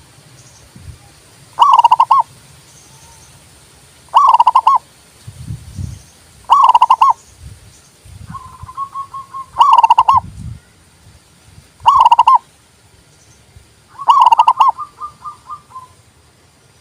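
Zebra dove (perkutut) cooing: six loud phrases of quick rolling notes, one about every two and a half seconds, with softer trailing notes after some of them.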